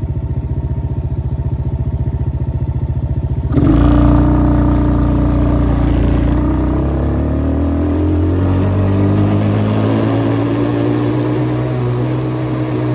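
Small off-road engines: one idles with a fast, even putter, then about three and a half seconds in a louder engine opens up and runs steadily at high revs, its pitch easing slightly lower toward the end.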